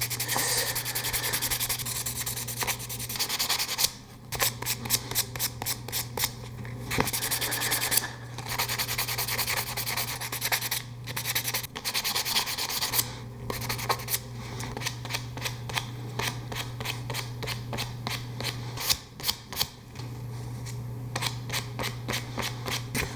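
Varnished wooden parts being scuffed by hand with an abrasive: quick back-and-forth rubbing strokes in several runs with short pauses, roughing up the varnish so the Hysol epoxy adhesive will bond.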